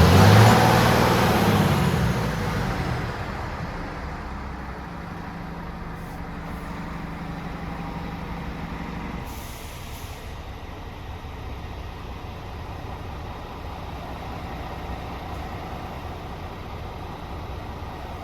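Scania R450 truck's 13-litre straight-six diesel revved once, its note peaking at the start and falling back over about three seconds to a steady idle. A short hiss of air comes about ten seconds in.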